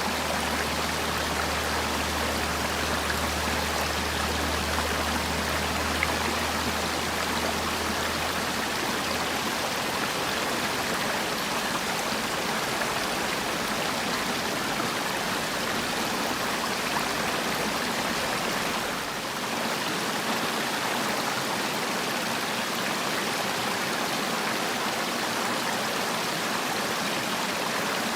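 Mountain valley stream flowing with a steady, even rush of water. A low hum underneath fades out about nine seconds in.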